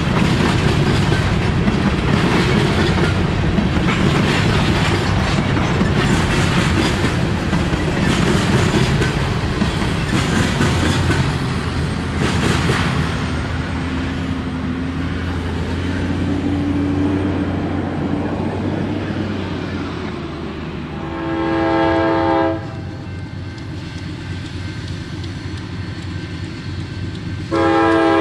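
A freight train rolls past with wheels clicking over the rail joints, its rumble slowly fading. A diesel locomotive's air horn then sounds one short blast about three-quarters of the way in, and starts another blast near the end.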